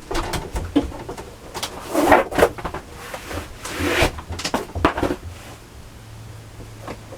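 Irregular knocks, clicks and rustling clatter of things being handled, stopping about five and a half seconds in, over a low steady hum.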